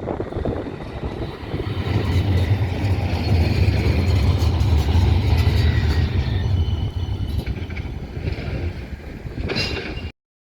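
Tram running past, a low rumble that builds about two seconds in and eases off after about seven seconds, with faint whining tones above it; the sound cuts off suddenly near the end.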